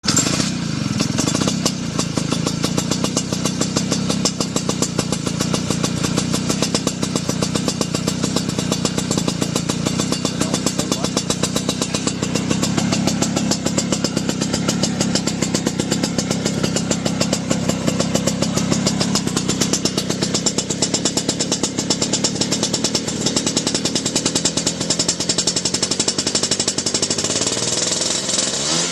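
Classic Vespa scooter's two-stroke single-cylinder engine running steadily through a GANTELI racing exhaust, a fast, even run of exhaust pulses.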